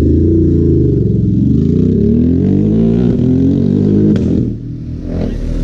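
Ducati Multistrada motorcycle engine running close by, its pitch rising and falling with the throttle, dropping away about four and a half seconds in.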